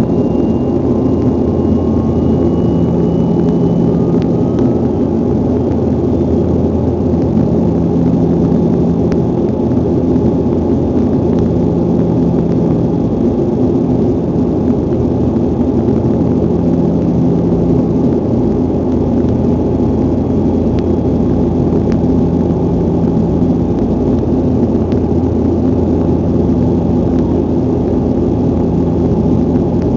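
Cabin noise of a Bombardier airliner climbing after takeoff: a loud, steady engine drone with a low hum that swells and fades every few seconds, and a faint tone rising slightly in the first few seconds.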